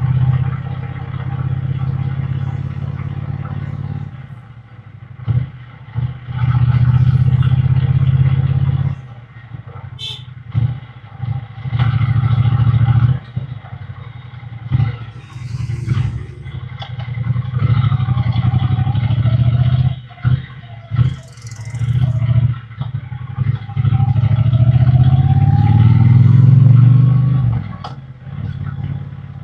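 Triumph Bonneville T120 parallel-twin engine and exhaust on the move, pulling hard in bursts of a few seconds with the note falling away between them as the throttle is rolled off and gears are changed. Near the end it climbs in pitch through one long pull, then drops off suddenly.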